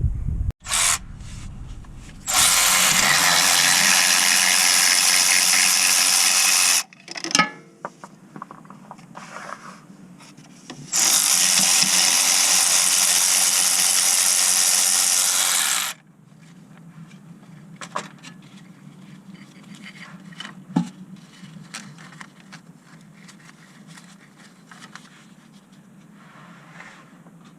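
A power tool runs in two steady bursts of about four and five seconds, with tools clinking and scraping between and after.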